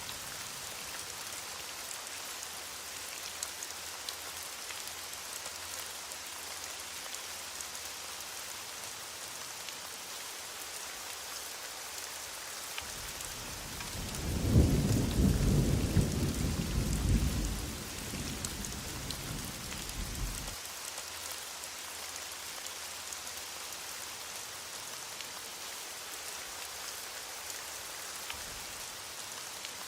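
Heavy rain falling steadily, with one rumble of thunder about halfway through that swells quickly, stays loud for a few seconds and then dies away.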